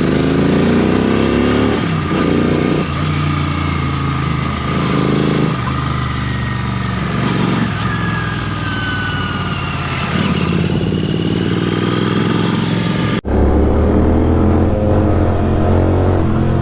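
Motorcycle engine running under way, its pitch repeatedly climbing and dropping as it revs and shifts. It breaks off abruptly about thirteen seconds in and is followed by a steadier, deeper engine sound.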